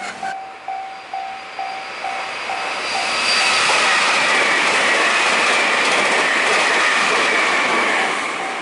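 Japanese level-crossing warning bell dinging about two and a half times a second, then a train passes close by from about three seconds in, its loud rush and a high whine sliding slightly down in pitch drowning the bell until it eases off near the end.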